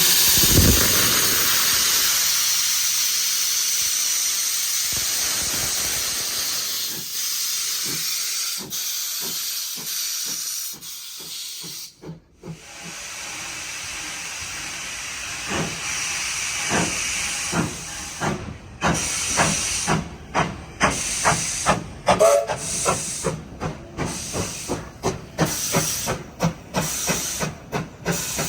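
A train releasing a loud hiss that fades away over about twelve seconds. Then comes a steady run of sharp clicks that gets faster and louder, typical of wheels passing over rail joints as the train gathers speed.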